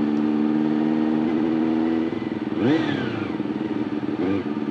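Honda CBR400RR inline-four engine running steadily, then revved sharply up and back down about two and a half seconds in, with a smaller rev near the end.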